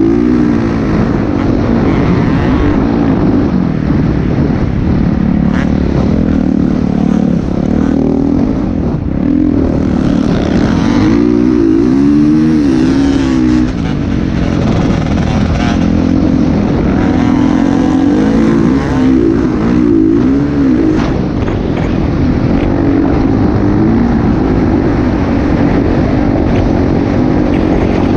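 Motocross bike engines running loud, their pitch rising and falling again and again as the throttle is opened and closed.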